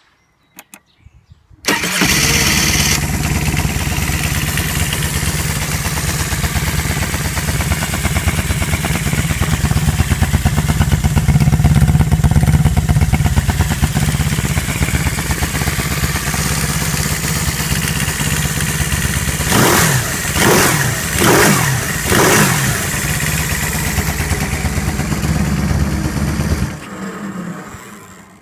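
Biland SA 250 engine starting: a few faint clicks, then it catches about two seconds in and runs steadily. Near the end of the run it is revved in about four quick blips, then it is switched off and dies away.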